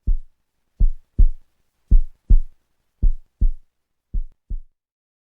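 Heartbeat sound effect: deep double thumps, lub-dub, repeating about once a second.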